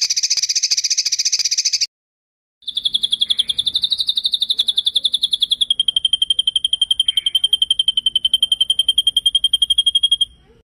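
A songbird's rapid rolling trill, the 'ngeroll' of a masteran training recording: a short burst, then after a brief gap a long, high, evenly pulsing trill that drops a little in pitch about halfway and holds steady.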